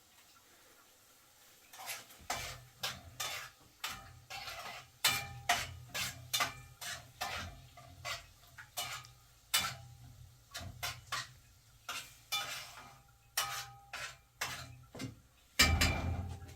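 Irregular clinks and clatters of objects being handled, roughly one or two a second, over a low steady hum. The sounds begin about two seconds in, and the loudest, longest clatter comes near the end.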